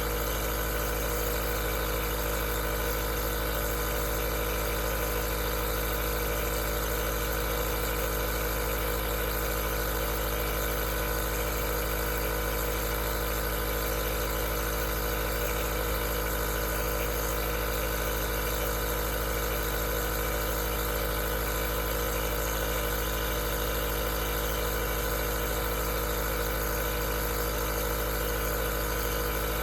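Aerosol nebulizer running steadily: an unchanging motor hum over an even hiss.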